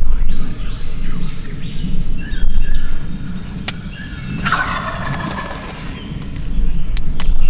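Wild turkey gobbler gobbling once, a rapid falling rattle about halfway through, over a steady low rumble and a few sharp clicks.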